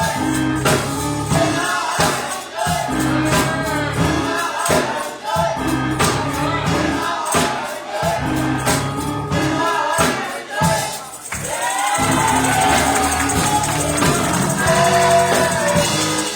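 Gospel music: a choir singing over a steady percussion beat. About eleven seconds in the beat drops out and the singing carries on over a sustained high shimmer.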